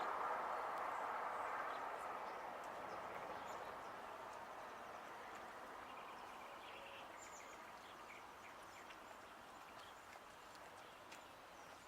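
Outdoor ambience: a broad rushing noise that fades away over the first few seconds, with faint, scattered bird chirps.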